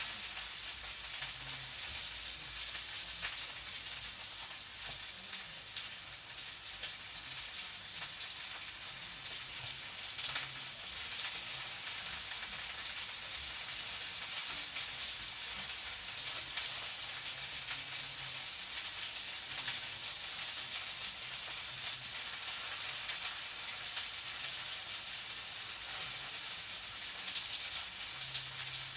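Food frying in a pan: a steady sizzle with faint crackles.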